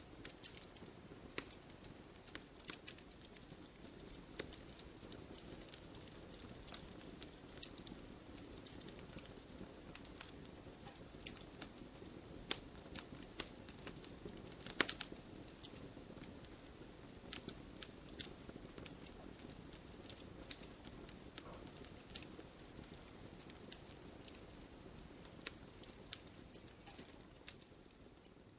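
Campfire crackling: irregular sharp pops and snaps, a few louder than the rest, over a faint steady rush of burning wood.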